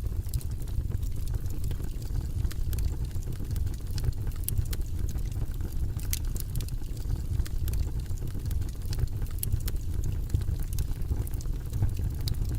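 Wood fire burning in a fireplace: a steady low rumble of flames with irregular crackles and pops scattered throughout.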